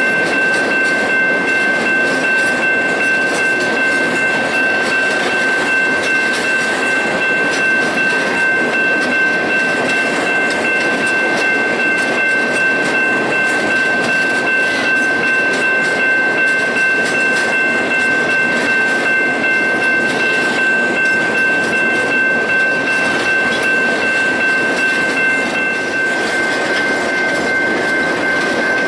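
Ore train cars rolling past on steel rails: a continuous loud rumble of wheels on track with a steady high-pitched squeal held over it. One strand of the squeal drops out near the end.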